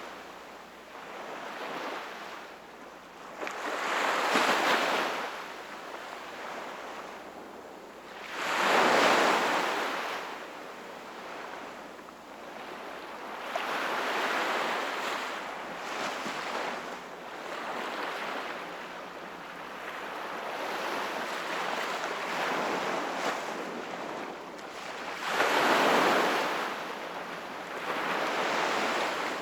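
Sea waves breaking and washing on the shore, a rush of surf that swells and fades again every few seconds, with the biggest surges about 4, 9 and 26 seconds in.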